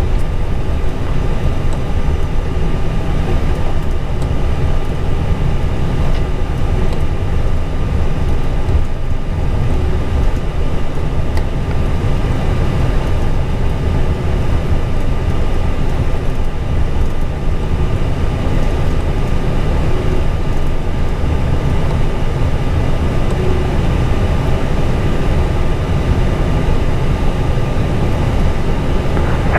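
Steady low rumble and hum inside an Airbus A320 cockpit, with the engines running at taxi power and a few faint steady tones over it. The level stays even throughout.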